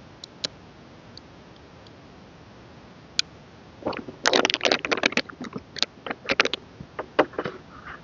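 A few light clicks, then about four seconds in a burst of crinkling and crackling lasting some three seconds, as K-pop album packaging is handled and unwrapped.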